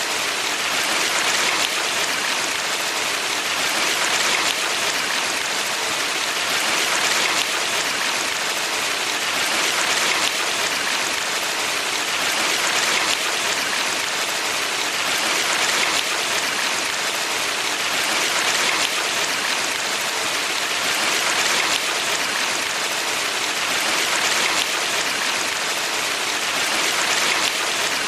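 Mountain valley stream: rushing water as a steady hiss that swells gently every three seconds or so.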